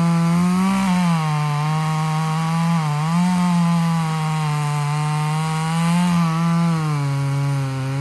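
Two-stroke chainsaw running at full throttle while cutting wood. Its high, steady pitch sags briefly three times as the cut loads it.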